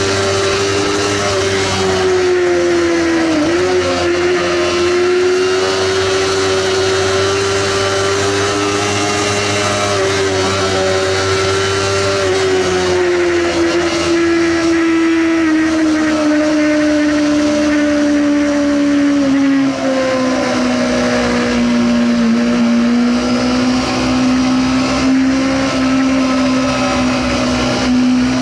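Sportbike engine running steadily at high revs, a loud high-pitched whine whose pitch slowly falls over the second half as the revs ease off.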